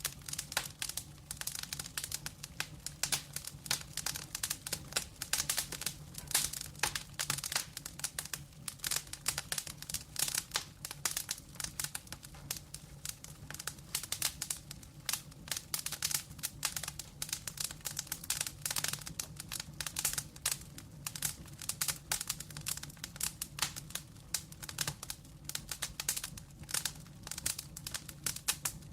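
Wood fire burning in a fireplace, crackling with dense, irregular snaps and pops over a low steady rumble.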